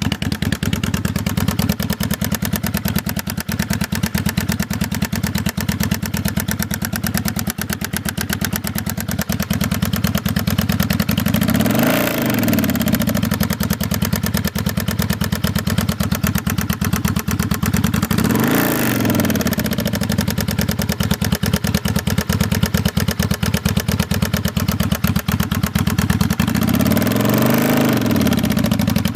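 1995 Kawasaki Vulcan 750 V-twin engine idling with a fast, continuous ticking clatter, blipped briefly three times. This is the unidentified engine noise that persists after the cam chain tensioners were replaced with manual ones.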